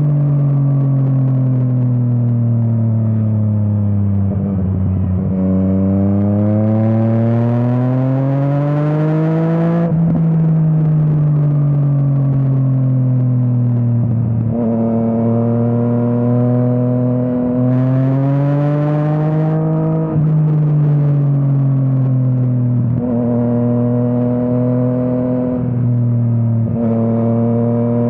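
Yamaha MT-09's inline three-cylinder engine through an Akrapovič exhaust, ridden hard on a winding road. Revs fall for the first few seconds, then climb steeply to about ten seconds in. After that the pitch swings up and down with several quick gear changes.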